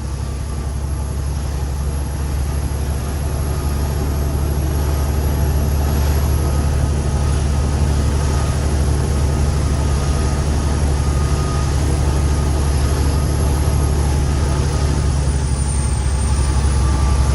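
Cummins X15 inline-six diesel of a loaded Kenworth T800 truck running steadily in a low gear, a deep, even engine drone that grows gradually louder.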